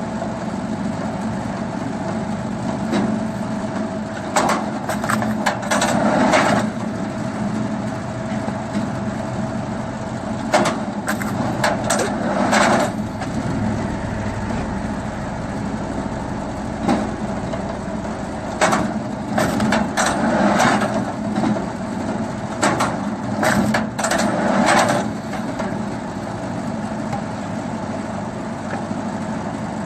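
Firewood splitting machine running steadily with a constant motor drone, with several bursts of wood cracking and crunching as logs are split.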